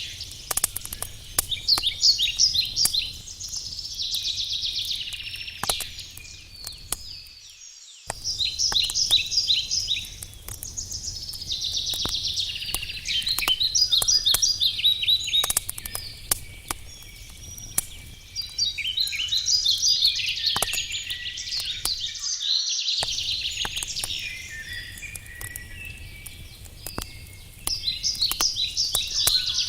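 Wood campfire crackling with frequent sharp pops, under louder songbirds singing repeated trilling phrases. The sound cuts out completely for a moment twice.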